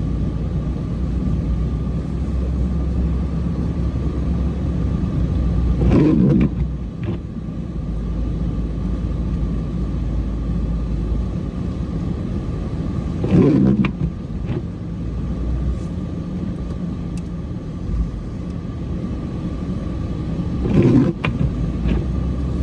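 Cummins diesel truck running steadily while plowing snow, a low rumble with a thin steady tone above it. Three short louder swells come several seconds apart.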